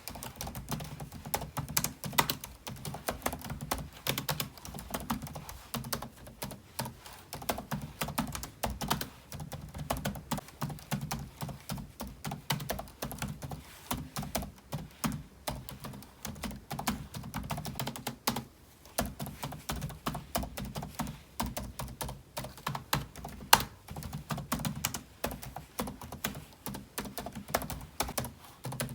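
Continuous typing on a computer keyboard: a steady, irregular stream of key clicks, with a short pause about two-thirds of the way through and one louder keystroke shortly after it.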